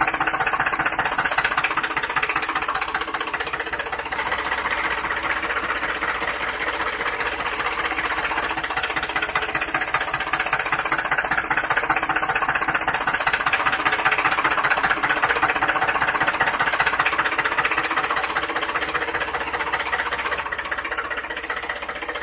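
Small motor of a homemade DIY model tractor running steadily with a fast, even mechanical rattle.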